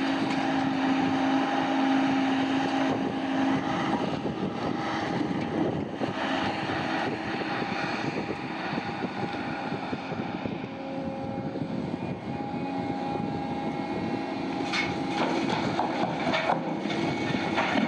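Heavy diesel mine machinery running steadily, with a held engine tone that fades out a few seconds in, and a few sharp metallic knocks near the end.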